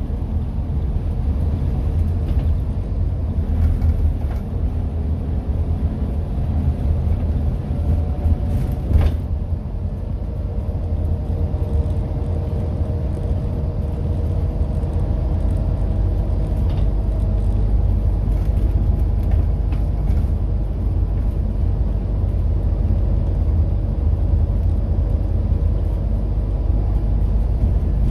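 Scania N230UD double-decker bus running under way: a steady low engine rumble with a faint engine note above it, and one sharp click about nine seconds in.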